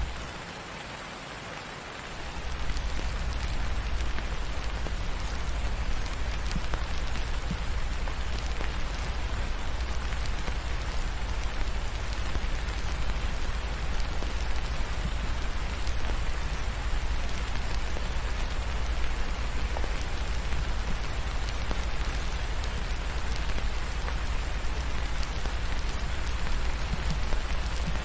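Steady rain falling, an even dense patter, with a low rumble beneath it that drops out for about the first two seconds and then returns.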